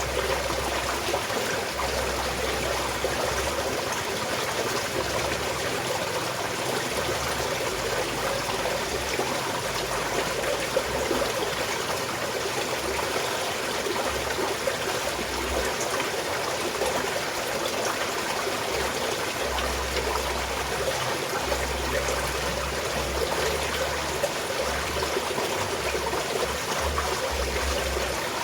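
Small stream of water flowing and trickling over stones, a steady babbling rush.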